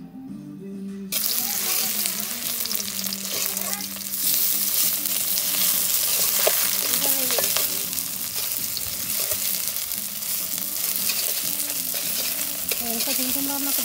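Food frying in hot oil in a metal karai, sizzling steadily while a metal spatula stirs and scrapes it around the pan. The sizzle comes in suddenly about a second in.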